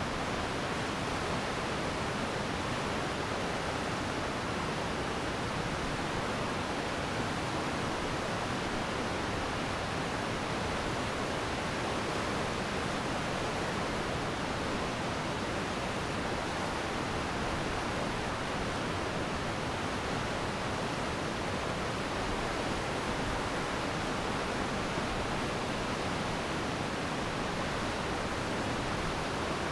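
Glacier meltwater stream rushing steadily over rocks, an even, unbroken wash of water.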